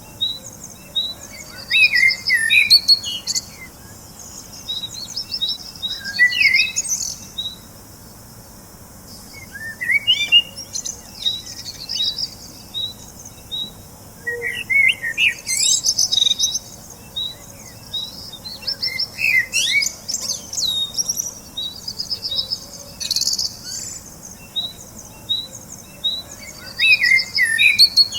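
Several birds singing and chirping, with quick runs of short high chirps, sweeping whistled notes and buzzy trills, overlapping in bursts every few seconds.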